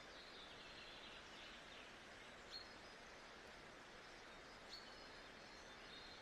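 Faint nature-sound background: a steady hiss with small birds chirping over it. There is high warbling at the start, two short sharp calls (one a little before halfway, one about three-quarters through), and more chatter near the end.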